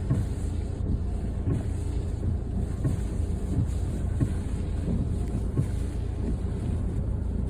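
Strong storm wind buffeting a car, heard from inside the cabin as a steady low rumble.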